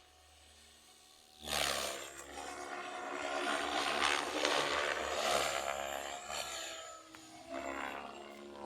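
Model helicopter's rotor and electric motor starting up suddenly about a second and a half in, then running loud with a whining, shifting pitch; the level dips near the end and picks up again.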